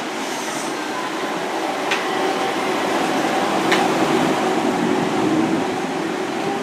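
Steady hum and whine of an electric loco-hauled train's equipment as it stands at the platform, with two short clicks a couple of seconds apart.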